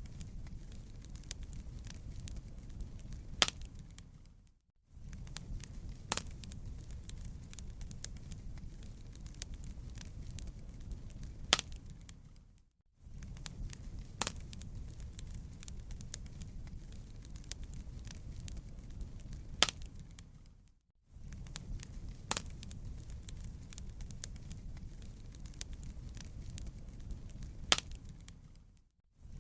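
Wood fire crackling and popping in a fireplace, with a low rumble of flames under sharp snaps. The crackle repeats in a loop of about eight seconds: one loud pop, then a fade to a moment of silence before the loop starts again, four times over.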